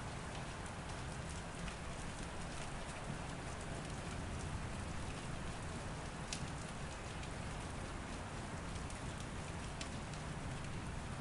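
Steady rainfall, an even hiss with scattered individual drops ticking sharply.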